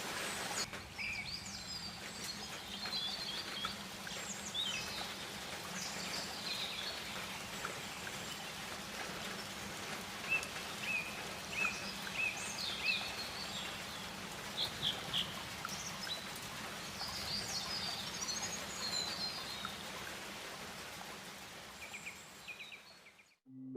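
Tropical rainforest ambience: a steady hiss of insects and forest noise with many birds chirping and whistling in short high calls throughout, fading out near the end.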